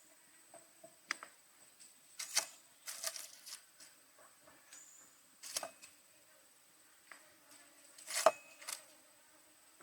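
A few irregular, sharp clicks and knocks, spaced unevenly, with the loudest about eight seconds in. Under them runs a faint, steady, high-pitched tone.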